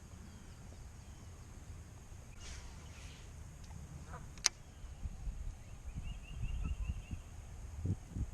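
A bird calls once, a quick run of about six repeated high notes, over low rumbling noise that grows louder in the second half. A single sharp click comes about halfway through.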